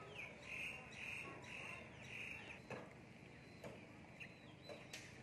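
Faint bird calls: four short repeated notes about half a second apart, then a few brief sharp ticks.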